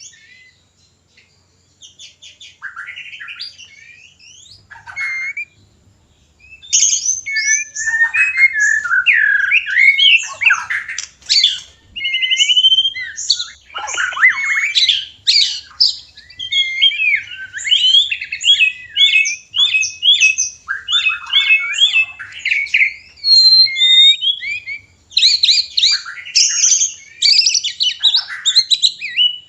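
White-rumped shama courtship song: a rapid, varied run of whistles, slurred glides, trills and harsh squawky notes, heard in the breeding-condition mating sounds of the species. The song is sparse and softer at first, then becomes loud and continuous about seven seconds in.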